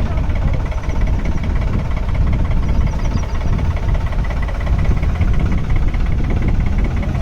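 Tractor's diesel engine running steadily with a heavy, slightly pulsing low rumble.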